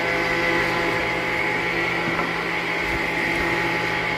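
Sawmill machinery running steadily: an even mechanical hum with a high whine, holding constant throughout.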